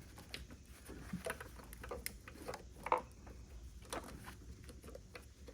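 Scattered light clicks and knocks of hand tools and small metal parts being handled on an engine bay, irregular, with the loudest knocks a little under three seconds in and about four seconds in.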